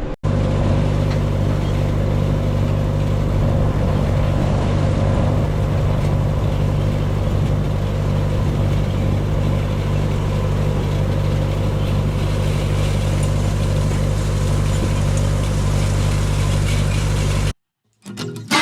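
Tractor engine running steadily while raking hay, its low even drone unchanged throughout and then cutting off suddenly near the end.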